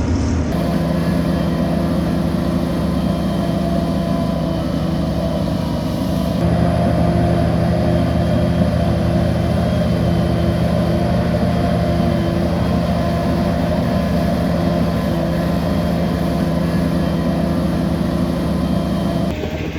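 Bulldozer's diesel engine running steadily with a deep, even engine tone. The sound shifts abruptly about six seconds in.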